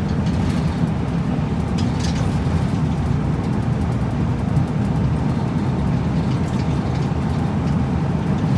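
Route bus driving along, heard from inside the cabin: a steady engine and road rumble, with a faint rattle about 2 seconds in.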